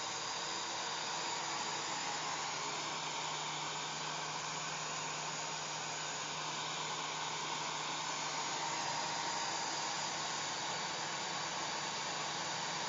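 Hair dryer running steadily: an even rush of blown air over a faint motor hum, with no change in speed.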